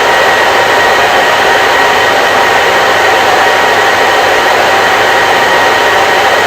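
Electric hair dryer running steadily: a constant rush of blown air with a faint motor whine through it.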